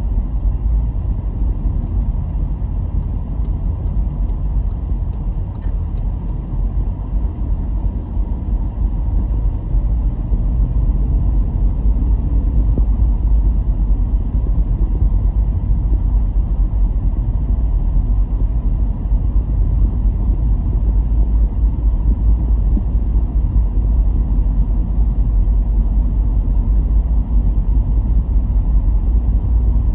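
Car driving along a road: steady low rumble of engine and tyres, easing off slightly then picking back up.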